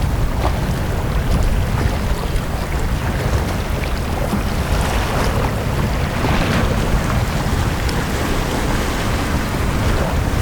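Sea waves washing onto a beach with a steady low rumble. One wave surges more loudly in the middle and then recedes.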